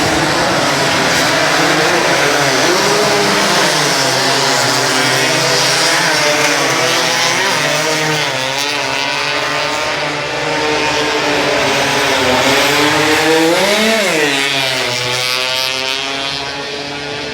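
Racing motorcycle engines revving loudly, several at once, their pitch rising and falling. About fourteen seconds in, one engine climbs sharply and drops back.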